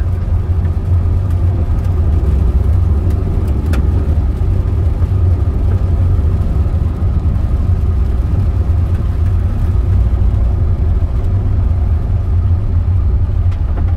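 Steady low drone of a car's engine and tyres on the road, heard from inside the moving cabin.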